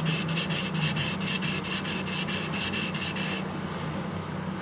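Yanagiba blade being ground on a coarse whetstone in quick back-and-forth strokes, about five a second, which stop a little over three seconds in. This is the bevel (kiriha) being ground flat to remove the micro bevel and any convexity.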